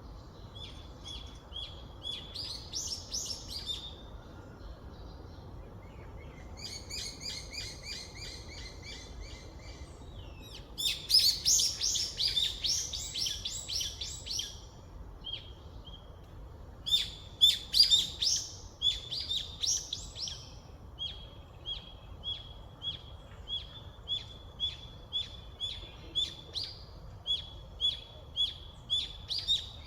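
Wild birds chirping and singing: several bursts of quick song phrases, the loudest near the middle, then one bird repeating a short chirp about twice a second. A low steady background hiss runs underneath.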